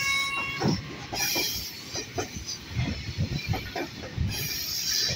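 A locomotive horn sounds and stops about half a second in. The freight train then runs on with wheels rumbling and knocking over the rail joints, and with bursts of hiss.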